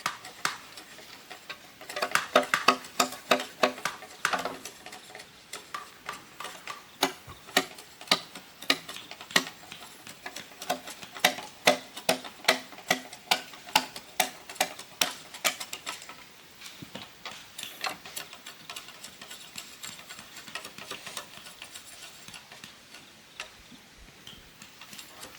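A tool striking bamboo in a series of sharp, ringing knocks. A quick run of blows comes about two seconds in, then a steady beat of about two knocks a second, thinning out near the end.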